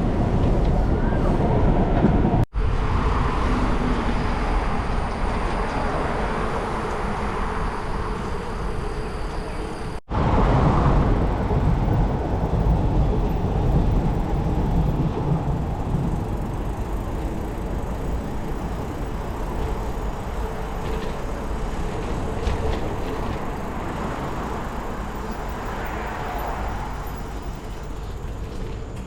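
Steady rumbling wind and road noise from a moving bicycle, heavy in the low end, broken twice by a split-second dropout.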